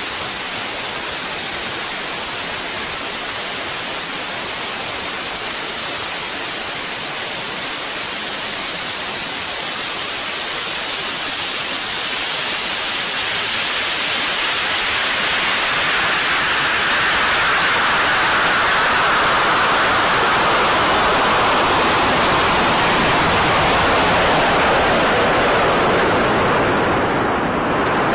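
Steady rushing wind noise, a loud even hiss that slowly swells and grows brighter through the second half, with a short dip just before the end.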